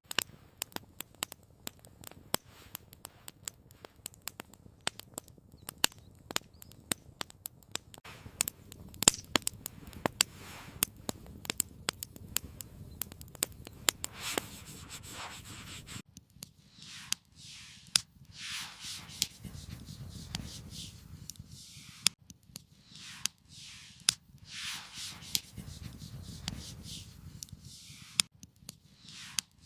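Wood fire crackling, with many sharp irregular pops and snaps over a low rumble. From about halfway on, soft rustling swishes come in among the pops.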